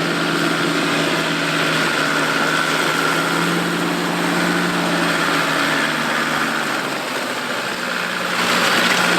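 A 4x4 off-road vehicle's engine running steadily at low speed, swelling a little near the end.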